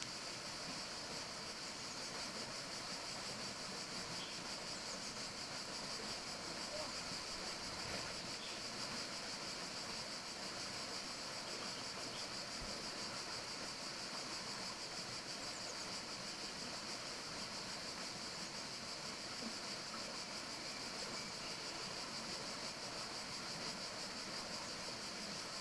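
Steady forest ambience: an even hiss with a constant high, bright band on top and a few faint ticks scattered through it.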